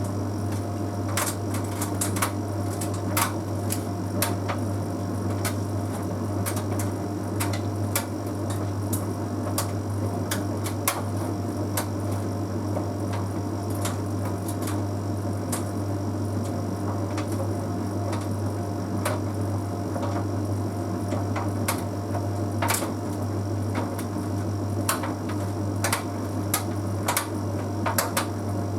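Bosch Series 6 heat pump tumble dryer running: a steady low hum from the drum motor and heat pump compressor. Irregular light clicks and taps come from the load tumbling in the drum.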